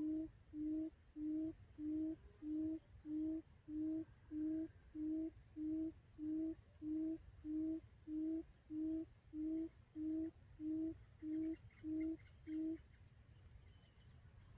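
Quail lure call: a long run of identical low hooting notes, about one and a half a second, that stops near the end.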